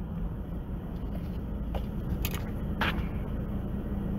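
Toyota Vios four-cylinder engine idling warm at about 830 rpm as the car rolls to a stop, heard from inside the cabin as a steady low rumble. A couple of brief clicks come about two and three seconds in.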